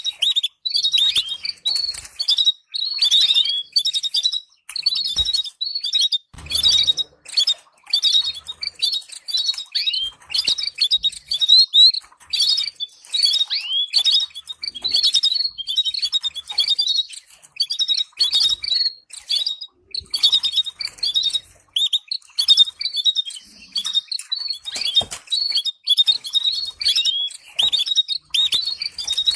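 Canary singing a long, continuous song of rapid chirps and trills, with short pauses between phrases: a training recording meant to stimulate caged birds to sing.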